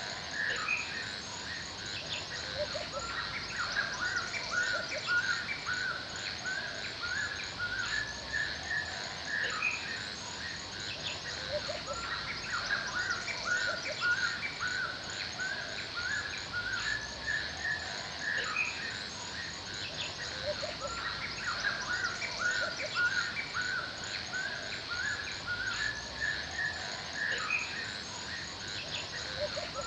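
Woodland soundscape of many small birds chirping and calling without pause, over a steady high insect drone.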